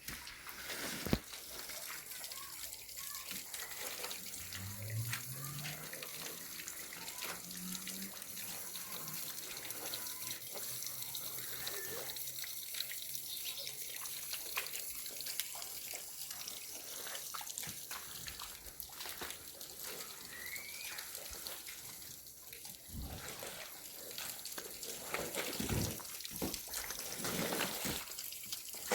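Water running and splashing, with scattered knocks and clinks over it.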